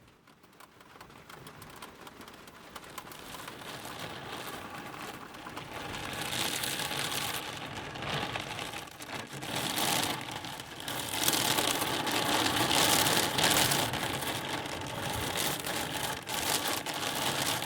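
Rain pattering during a passing thunderstorm, starting light and building to a heavy downpour about halfway through.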